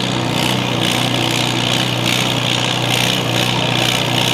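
Farmall M pulling tractor's engine running steadily at an even pitch.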